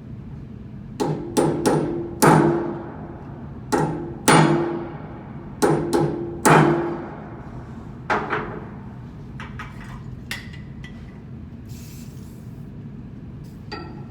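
Hammer striking metal: about ten heavy blows in uneven bunches, each with a short metallic ring, followed by a few lighter taps.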